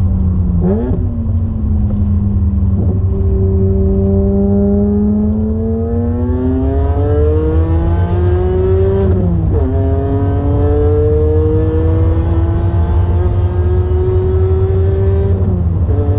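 BMW Z4 M's S54 3.2-litre straight-six accelerating through the gears: the engine note climbs and drops sharply at each upshift, with two quick shifts in the first three seconds, then a long climb to a shift about nine and a half seconds in and another long climb to a shift near the end. A constant low rumble runs underneath.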